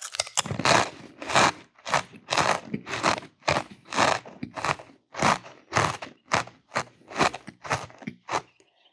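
A person chewing crunchy food in a steady rhythm of about two crunching chews a second, stopping near the end.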